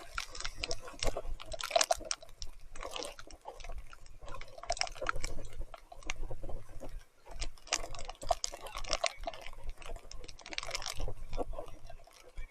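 Mountain bike riding through wet mud in heavy rain: irregular squelching, splashing and dripping from tyres in the mud and water, with a low rumble underneath.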